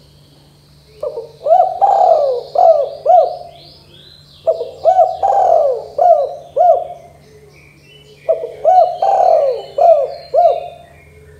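Spotted dove (tekukur) cooing: three phrases of about five coos each, a few seconds apart. Faint high chirps sound above them.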